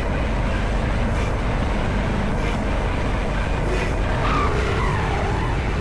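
Honda CB190R motorcycle in motion: wind rushing over the microphone with the single-cylinder engine running underneath, and a tone that falls in pitch about four seconds in.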